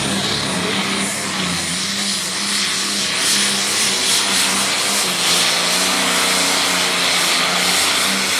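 Light Modified pulling tractor running at full throttle while it drags the weight sled down the track. It holds a steady engine note under a loud rushing hiss that builds from about three seconds in.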